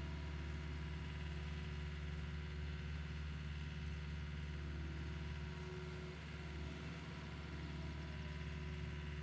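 Engine of the machine driving the power rake, running at a steady, even speed.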